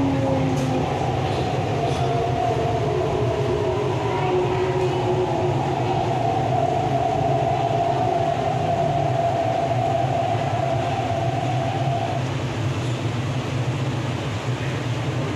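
MTR East Rail line R-Train electric multiple unit running, with a steady low rumble and a motor whine that holds steady and stops about twelve seconds in.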